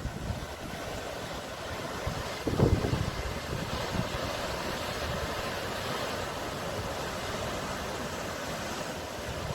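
Sea waves washing ashore in a steady hiss, with one louder wave breaking about two and a half seconds in.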